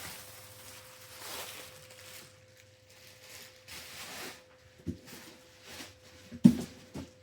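Packaging being pulled and torn off by hand: a series of rasping, swishing rustles, then scattered smaller rustles and a sharp knock about six and a half seconds in as something hard is set down or bumped.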